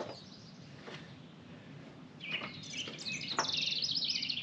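A songbird singing a rapid phrase of high, quickly repeated chirps through the second half, with a few light knocks in between.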